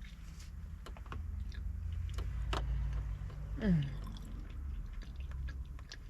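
A person chewing food, with scattered small clicks and mouth noises over a steady low hum. A brief pitched sound slides downward a little past the middle.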